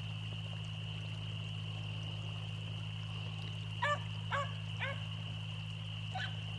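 Beagles baying on a rabbit's trail: three short, pitched bays in quick succession about four seconds in, then a fainter one near the end.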